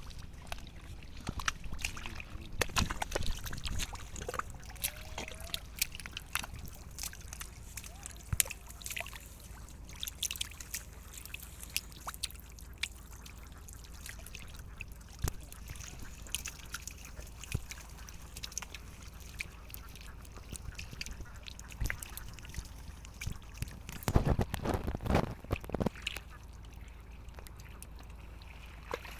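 Irregular splashing and dripping of shallow water as fish and prawns are handled in it, with a louder flurry of splashes near the end.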